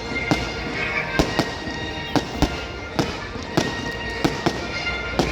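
Fireworks display: a rapid run of sharp firework bangs, about two a second, each with a short echo.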